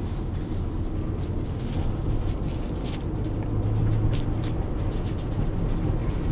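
Car driving at road speed, heard from inside: a steady low engine and tyre rumble with a faint hum and a few light ticks.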